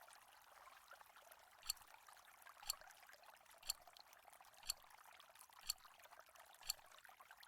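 Faint, sharp ticks about once a second over a low hiss, like a quiz countdown timer ticking.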